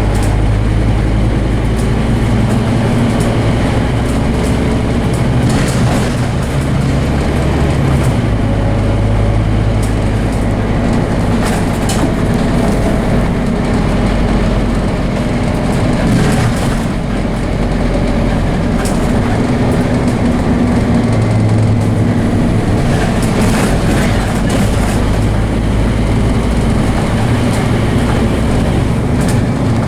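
Scania DC9 five-cylinder diesel engine of a double-decker bus working hard under way, its note stepping in pitch a few times as the gears change. Scattered rattles and knocks from the bus run through it.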